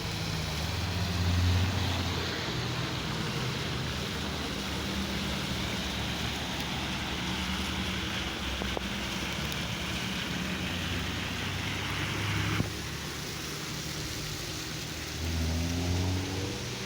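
Cars driving past, with engine hum loudest about a second in and again near the end, when one engine revs up with a rising pitch. A steady hiss of wind or tyre noise cuts off abruptly about two-thirds of the way through.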